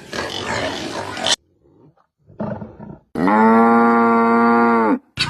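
A cow mooing once: one long, steady, low call of about two seconds, starting a little past the middle and dropping in pitch as it ends. It follows about a second of rough noise at the start.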